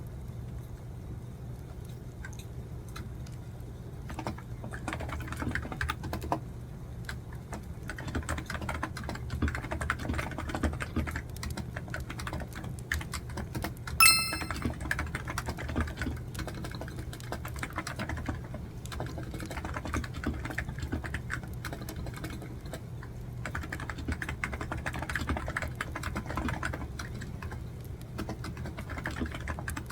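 Computer keyboard typing in runs of quick keystrokes, sparse for the first few seconds and thinning out for a while past the middle. About halfway through, a short bright ringing clink stands out as the loudest sound.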